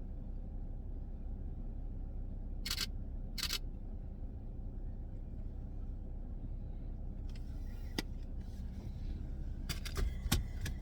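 Two camera shutter clicks about a second apart over the low, steady rumble of a car heard from inside the cabin. A few faint clicks and handling knocks come near the end.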